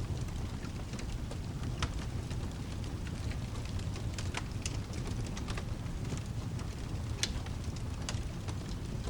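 Ambience of rain and a crackling wood fire: a steady low rumble with a haze of rain over it, and scattered sharp crackles and pops from the fire.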